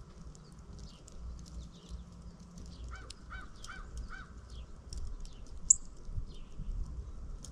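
Backyard birds chirping, many short high chirps over and over. About three seconds in, a larger bird gives four quick calls in a row, and one sharp high chirp stands out near the end. A low rumble runs underneath.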